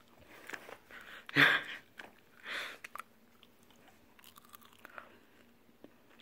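A person chewing a mouthful of crinkle-cut french fries, with two louder crunches in the first three seconds and then quieter chewing.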